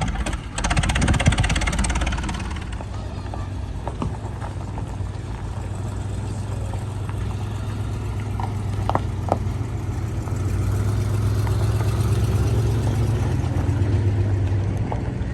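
An engine running steadily with a low hum that grows louder for a few seconds near the end, with a short burst of noise about a second in.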